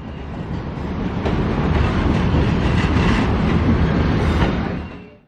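Train running past at close range, a heavy rumble and wheel noise that builds over the first couple of seconds and holds, then fades out quickly near the end.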